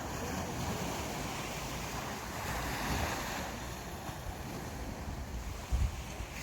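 Sea waves washing onto a beach, a steady surf hiss that swells about halfway through. Wind gusts buffet the microphone with low rumbles, one stronger thump near the end.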